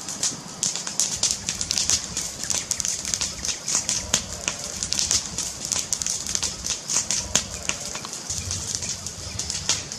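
Wood fire crackling: a dense, irregular run of sharp pops and snaps over a low rumble.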